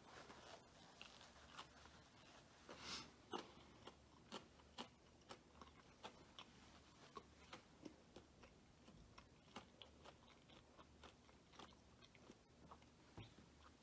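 A person chewing a fried fast-food meal close to the microphone, faint, with a run of small irregular mouth clicks and crunches about one or two a second, a little louder about three seconds in.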